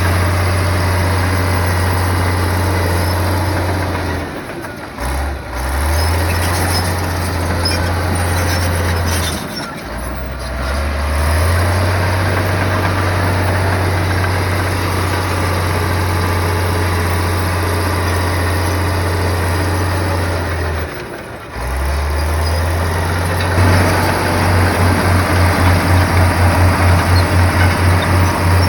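Komatsu bulldozer's diesel engine running loud and steady with a deep drone, dropping off briefly three times. Near the end the drone takes on a throbbing pulse of about three beats a second.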